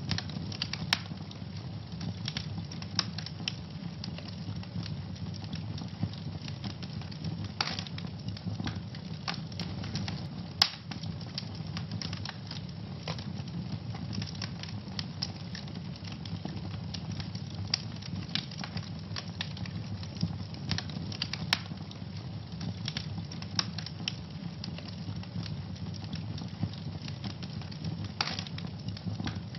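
Wood fire burning in a fireplace, a steady low rumble with frequent irregular crackles and sharp pops.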